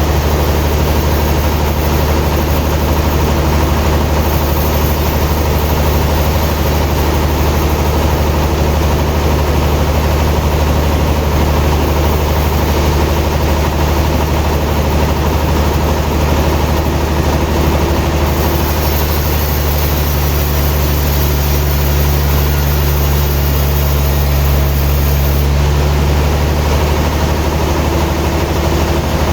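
A heavy engine idling steadily with a deep, even hum.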